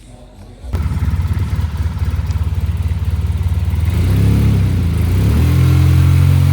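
Quad bike engine starting suddenly at a low, rapidly pulsing run, then rising in pitch about four seconds in and holding a steady note.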